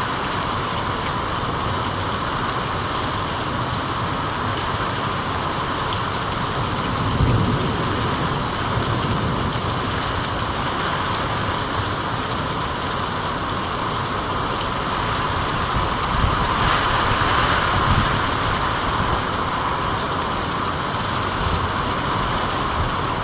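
Steady rain falling as an even hiss, with a few brief low rumbles under it about 7 and 17 seconds in.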